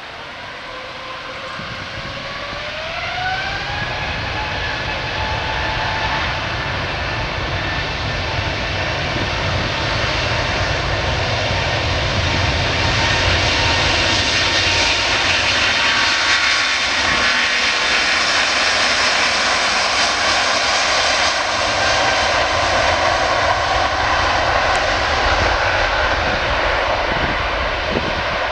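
Airbus A350's Rolls-Royce Trent XWB turbofans spooling up to takeoff thrust: a whine rises in pitch over the first few seconds and then holds steady. The jet noise grows louder for about ten seconds and stays loud.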